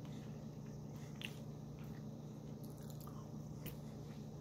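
A person chewing a mouthful of crinkle-cut French fries, with a few faint, irregular clicks of chewing.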